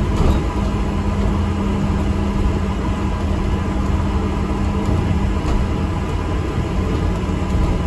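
ADL Enviro400 MMC double-decker bus on the move, heard from inside: a steady low rumble of engine and road, with a steady hum over it that fades a little after about five seconds.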